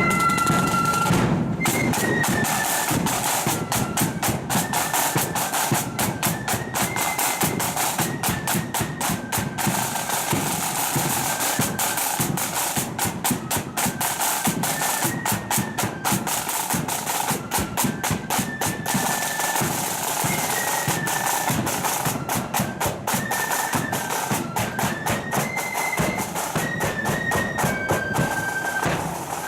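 Marching flute band playing a tune: shrill flutes carry a stepping melody over rapid snare drum strokes and rolls.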